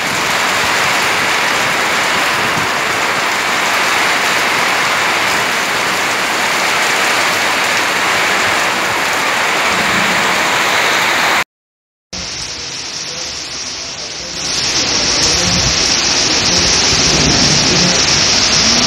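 Heavy rain pouring down as a dense, steady hiss. Close to the middle it cuts out for a moment where two clips are joined, and in the second clip the downpour grows louder a few seconds later.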